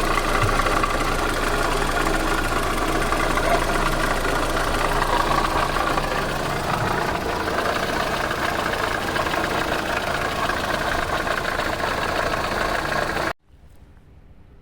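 VAZ eight-valve four-cylinder engine running with a metallic knock. The sound cuts off suddenly near the end.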